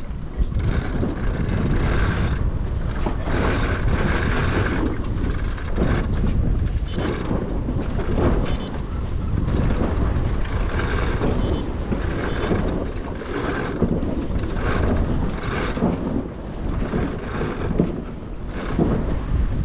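Wind buffeting the microphone aboard a sailboat under way, with water rushing along the hull, swelling and easing in gusts about once a second. A few faint high ticks come around the middle.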